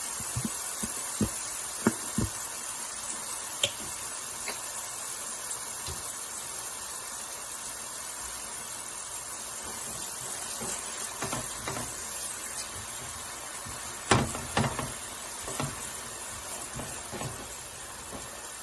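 Onions, ginger and minced garlic sizzling in a pan: a steady hiss with scattered knocks of a utensil against the pan, the loudest about fourteen seconds in.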